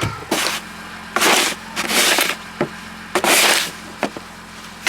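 Snow crunching and scraping in a series of short bursts, about one a second.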